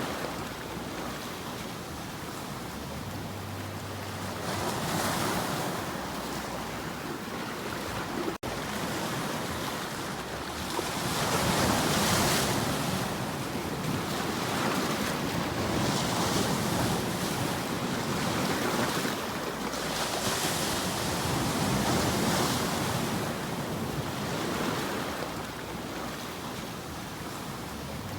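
Surf: waves washing in and receding, the noise swelling and fading every few seconds, with wind. There is a brief dropout in the sound about eight seconds in.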